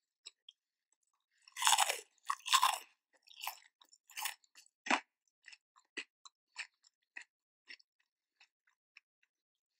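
Close-miked chewing of crispy Cheetos-crusted fried popcorn chicken: a few loud crunches in the first three seconds, then softer chews about two a second that fade away.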